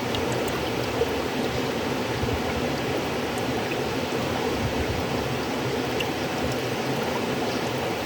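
River water flowing steadily, an even rushing with faint small splashes and gurgles.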